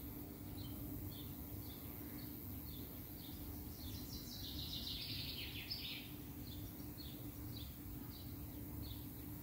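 Songbirds calling in the background: short high chirps repeated about two or three times a second, with a louder, faster song of about a second and a half near the middle. Under them, a steady low outdoor rumble.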